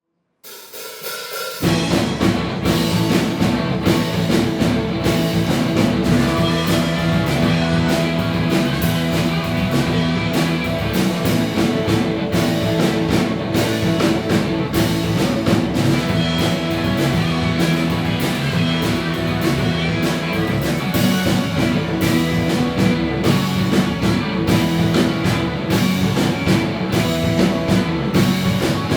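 Rock band playing live, with the drum kit to the fore. The sound fades up from silence over the first second or two, then runs at full level.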